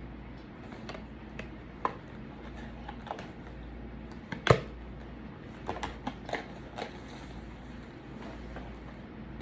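Scattered small clicks and taps from eating and handling food at a table, with one sharper knock about halfway through and a quick cluster of clicks just after it.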